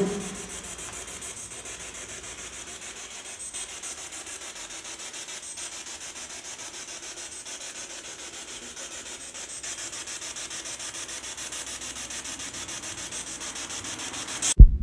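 Steady rasping hiss like static, with a fast, even grainy texture and a few faint knocks, cutting off suddenly near the end.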